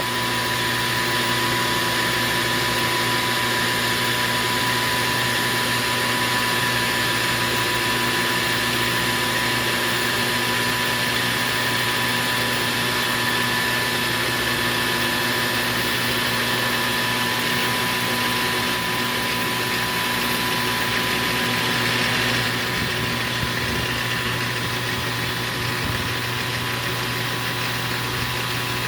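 Metal lathe running steadily, its motor and drive giving a constant hum with a faint whine.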